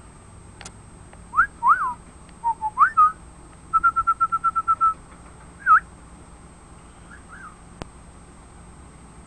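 Pet bird whistling: several clear whistles gliding up and down, then a quick run of about ten short, even notes, then a few more whistles.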